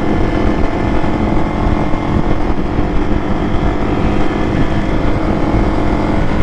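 Motorcycle engine running at a steady cruising speed, a continuous even drone with no changes in pitch.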